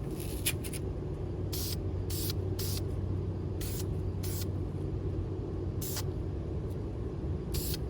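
Dupli-Color filler/primer aerosol spray can hissing in about seven short bursts, each well under half a second, as a light second coat of primer is misted on. A steady low drone runs underneath.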